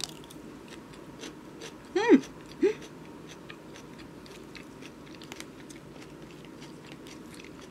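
A mouthful of fresh salad vegetables being chewed, with soft crunching clicks throughout. Two short vocal sounds come a little after two seconds in and are the loudest thing.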